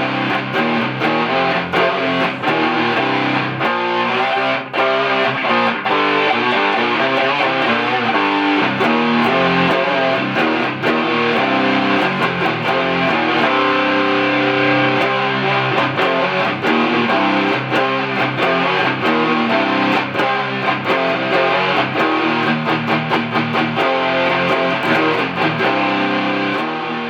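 Electric guitar played through the ART DST 8080 powered preamp on its 'Scream' setting, an emulation of an Ibanez Tube Screamer overdrive, giving a mid-gain distorted tone. The guitar plays a continuous run of riffs with the notes changing constantly.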